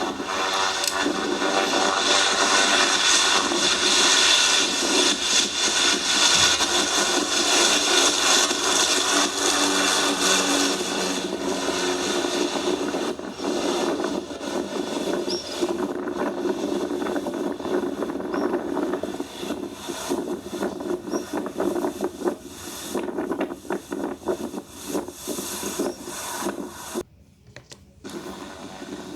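Airliner engines at takeoff power: a loud, even rushing noise that builds over the first few seconds and then slowly fades as the aircraft climbs away. It cuts out briefly near the end.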